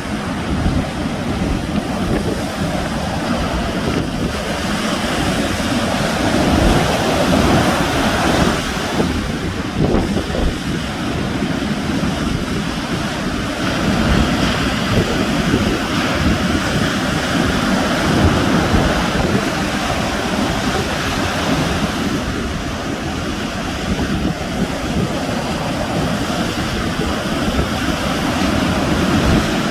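Sea waves breaking and washing on the shore in a continuous wash that swells and eases slowly, with wind buffeting the microphone.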